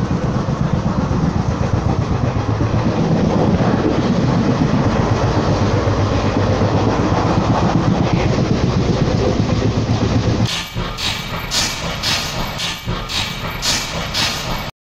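Indian Railways express train running, heard from inside a coach as a steady dense rumble and rattle. About ten seconds in the sound changes to a lighter running noise with sharp hissing beats about twice a second, and it cuts out briefly near the end.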